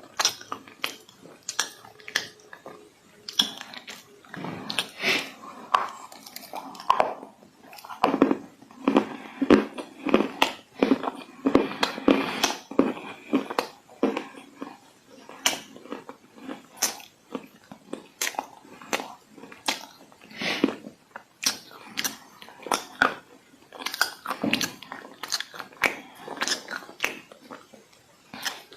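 Crisp, irregular crunching of dry clay being bitten and chewed close to the microphone, with quick runs of crackles and snaps.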